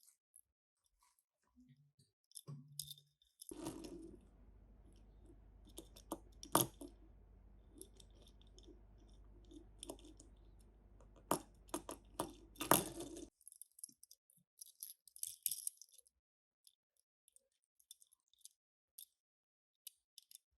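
Small diecast toy cars and plastic being handled: scattered light clicks, clinks and rattles, with a few sharper knocks in the middle. A faint low hum sits under the middle part.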